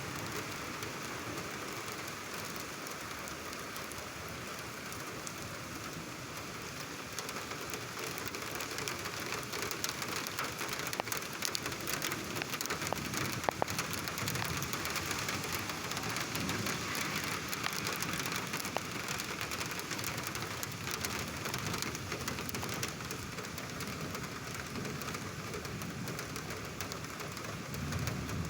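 Heavy rain falling steadily and splashing on surfaces, with individual drops tapping sharply, most of them around the middle. A low rumble of thunder swells near the end.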